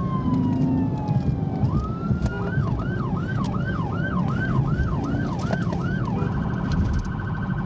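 Police siren: a slow wail winds down, then the siren switches to a fast yelp of about two to three up-and-down sweeps a second. About six seconds in it changes again to a rapid pulsing high tone. A steady low rumble of engine and road noise runs under it.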